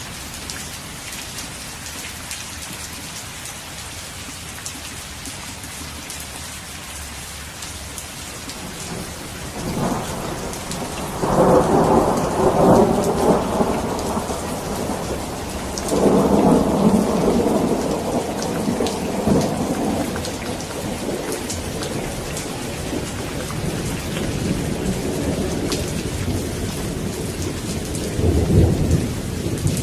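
Steady rain falling, with rolling thunder that builds about a third of the way in, rumbles twice over several seconds, and rumbles again near the end.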